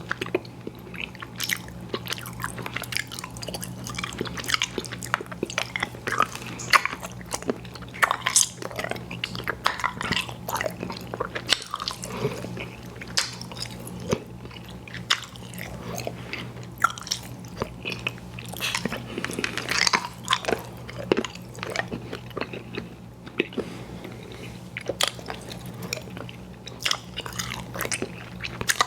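Close-miked chewing of chewy fruit candy: a continual run of wet smacking and clicking mouth sounds.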